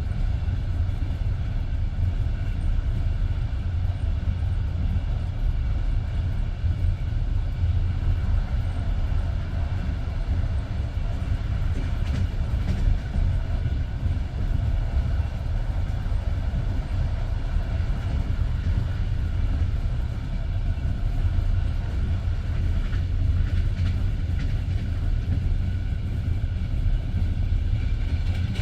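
Passenger train coach rolling along the track, heard from inside the carriage: a steady low rumble of wheels on the rails.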